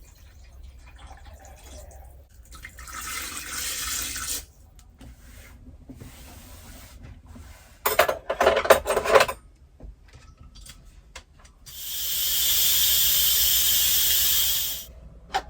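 Kitchen work sounds: a brief rush of hissing noise, a short clatter of utensils or cookware, then a steady high hiss that swells up, holds for about three seconds and cuts off near the end.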